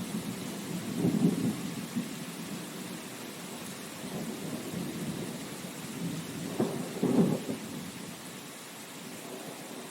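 Steady rain hiss with low rolls of thunder: one about a second in and a louder one around seven seconds, then the rumble dies away near the end.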